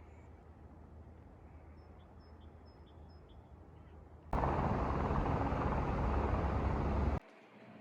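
Quiet outdoor ambience with a few short, high bird chirps. About four seconds in, a loud steady rushing noise with a deep rumble cuts in, then cuts off abruptly near the end.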